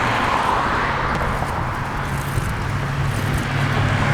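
Wind rushing over the microphone while cycling, with the steady low hum of road traffic engines alongside.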